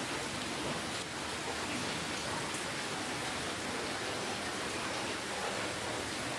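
Steady rainfall: an even hiss of many drops with faint scattered patters.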